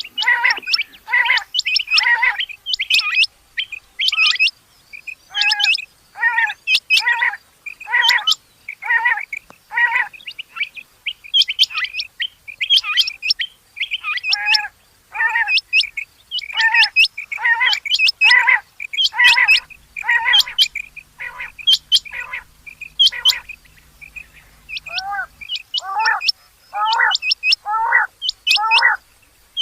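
Rain quail calling over and over: short, sharp repeated notes, about two a second, in runs with brief pauses. A faint low hum sits under the calls for a few seconds past the middle.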